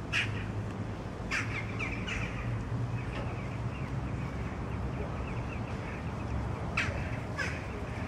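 Short harsh bird calls, three near the start and two near the end, with faint chirping between them, over a steady low hum.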